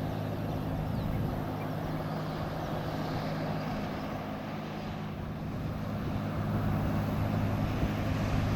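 A ship's engine running with a steady low hum under a wash of noise.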